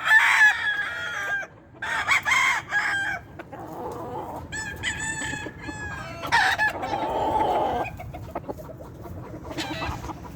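Gamefowl roosters crowing one after another, about four long crows in turn, with a fainter one near the end.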